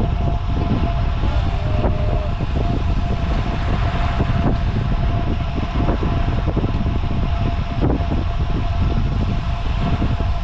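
Wind buffeting the microphone of a moving road bike, a steady low rumble with a thin constant whine above it.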